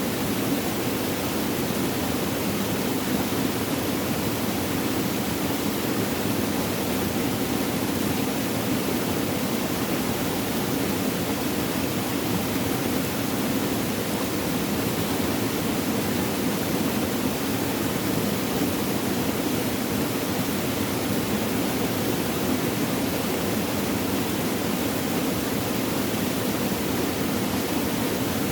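Flowing water running steadily, an even, unbroken noise that never changes, fullest in its lower tones.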